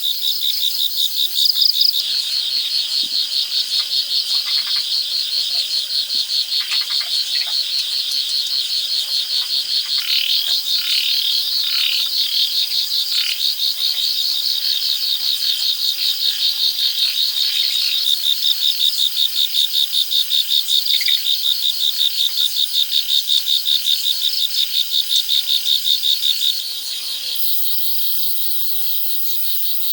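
Loud rainforest insect chorus: a dense, rapidly pulsing high trill that runs on steadily. A few short calls from another animal cut through it in the middle, and the chorus gets quieter near the end.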